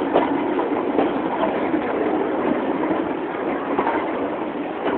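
Passenger train rolling slowly along the track: a steady rumble of wheels on rail, with a few irregular sharp clicks and knocks.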